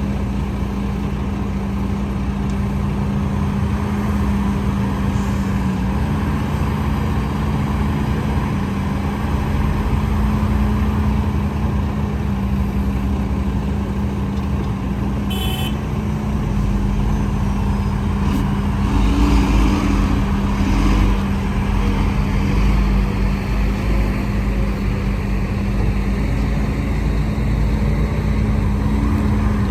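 Heavy diesel earthmoving machinery running steadily with a constant low drone, the rumble growing heavier in the second half. A short high-pitched beep about halfway through.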